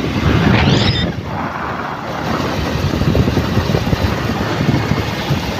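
Loud wind buffeting the microphone, with a short high-pitched rising sound about half a second in.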